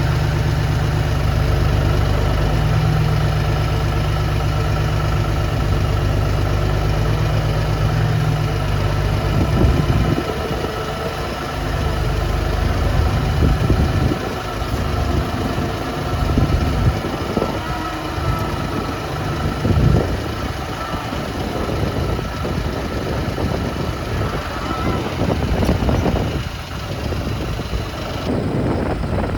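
Vehicle engine running. It is steady for about the first ten seconds, then uneven, with irregular knocks and rattles over it.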